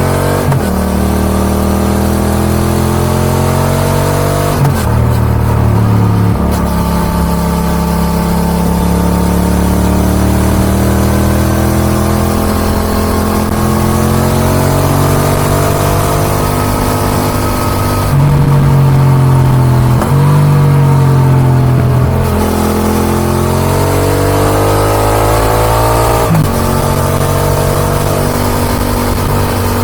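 Yamaha XSR 700's CP2 parallel-twin through an Akrapovic exhaust, pulling hard and backing off. The pitch rises and falls over and over, breaking sharply at each of several gear changes.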